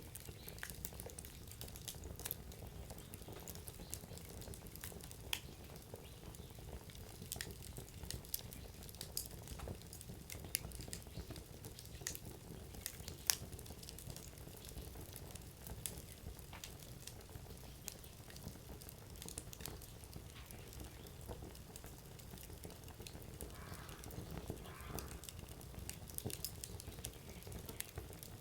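Wood campfire burning: firewood crackling with irregular sharp pops over a steady low rumble of the flames.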